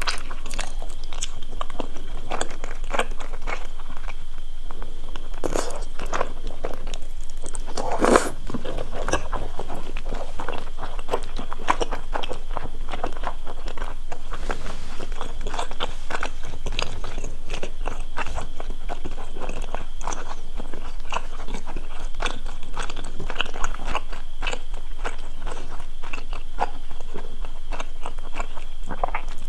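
Close-miked chewing of chewy Korean rice cakes (tteokbokki) in spicy sauce: a steady run of small, irregular mouth clicks and smacks, with a louder one about eight seconds in.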